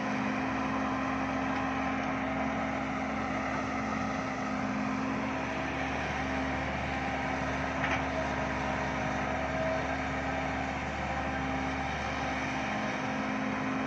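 Heavy diesel engine running steadily with a constant low drone, a short click about eight seconds in.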